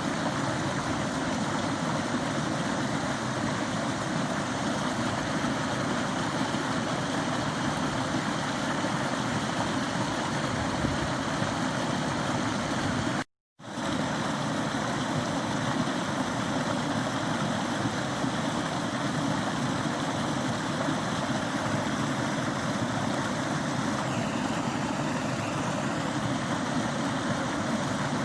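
Forest stream running, a steady rush of flowing water that drops out for a split second about halfway through.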